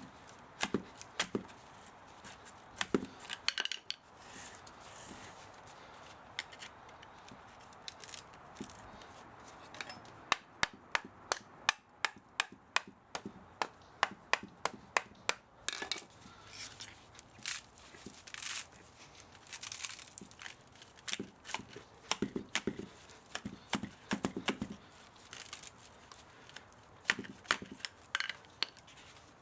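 Hand tools working on an old electric spa motor as it is taken apart: irregular sharp clicks and knocks with some scraping, and a quick run of about four clicks a second in the middle.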